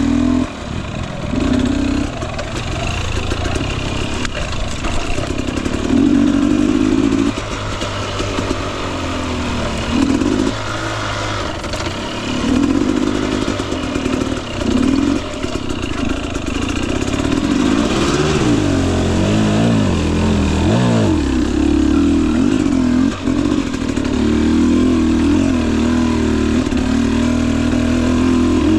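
Two-stroke engine of a 2021 Husqvarna TE250i dirt bike running at low trail speed, rising and falling in short bursts of throttle. Around the middle the pitch sweeps up and down a few times.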